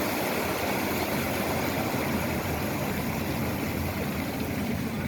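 Engine of railroad maintenance-of-way equipment running steadily.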